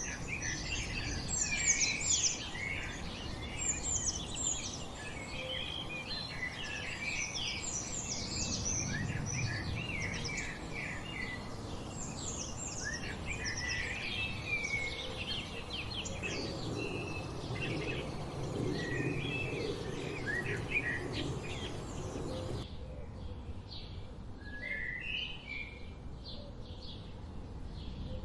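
Wild songbirds singing and chirping together, a dense chorus of quick overlapping chirps and trills over a low steady background noise. About three-quarters of the way through the sound changes abruptly to fewer, sparser calls with a quieter background.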